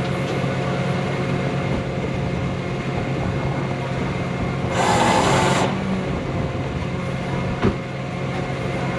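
Truck engine running steadily. About halfway through comes a hiss lasting about a second, and near the end a single short knock.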